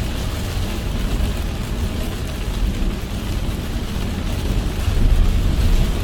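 Car driving in heavy rain: steady low road and tyre rumble with rain drumming on the body and windshield, getting slightly louder near the end.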